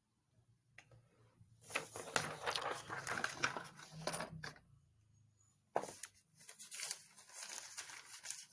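Rustling, crinkling handling noise in two stretches, the first starting about two seconds in and the second about a second after it stops.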